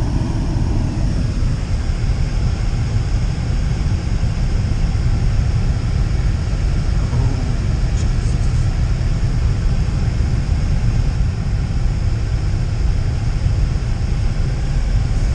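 Wind buffeting the camera's microphone in a blizzard: a steady, loud, low rumble.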